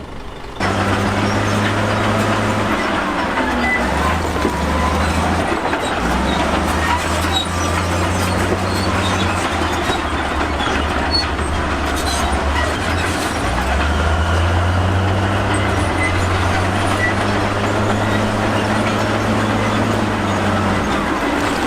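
Crawler bulldozer working, its diesel engine running under load with its steel tracks clattering and squealing. The sound cuts in about half a second in, and the engine note steps up and down several times.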